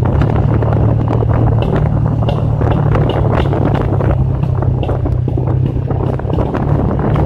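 Motorcycle engine running steadily under way, almost buried by heavy wind rushing and buffeting against the microphone.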